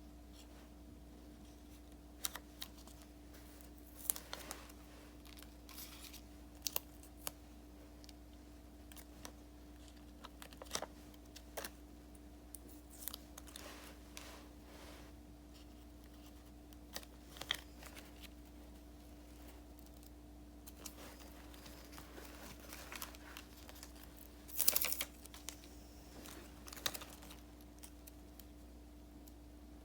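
Paper and stickers being handled on a desk: scattered small taps, clicks and crinkles, with a longer, louder rustle about 25 seconds in. A faint steady hum runs underneath.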